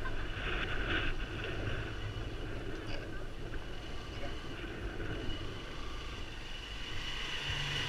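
An engine running steadily under wind noise.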